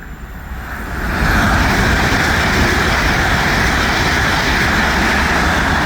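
A train passing close by at speed: a rushing noise with a low rumble swells over the first second, then holds loud and steady.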